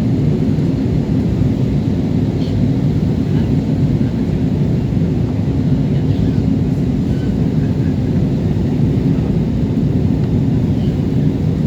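Steady low rumble of jet engines and airflow heard inside the cabin of a Jetstar Japan Airbus A320 on approach.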